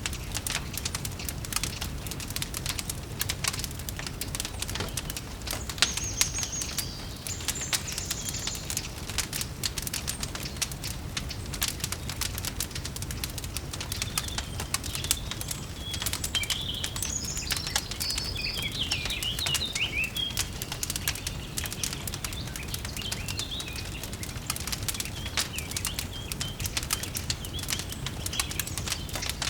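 Wood fire crackling steadily over a low rumble, with birds chirping for several seconds midway.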